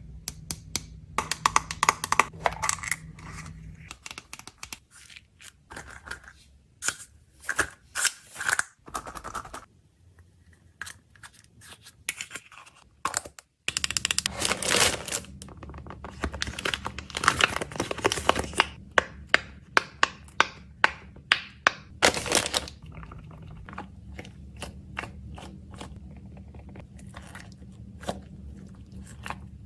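Snacks and packaging being handled and packed: crinkling and tearing wrappers, with many sharp taps and clicks as items and containers are set down and closed.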